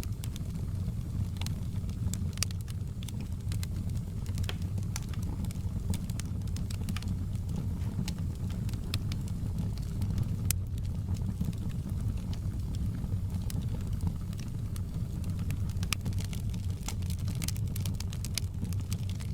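Wood fire in an outdoor fireplace crackling, with irregular sharp pops and snaps over a steady low rumble.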